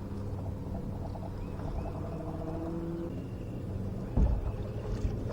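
A steady low motor hum, with a few short high chirps and a single thump a little after four seconds in.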